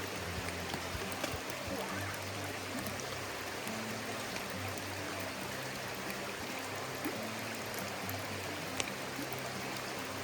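Steady rushing of a stream running high, with a few sharp ticks over it. Faint low held notes change about once a second underneath.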